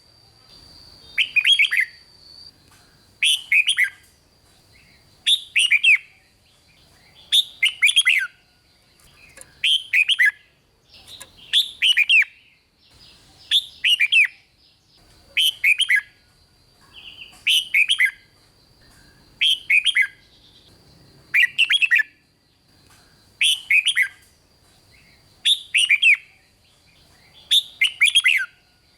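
Red-whiskered bulbul singing its short, bubbling 'rik' phrase over and over, about one phrase every two seconds. A faint steady high tone sounds underneath throughout.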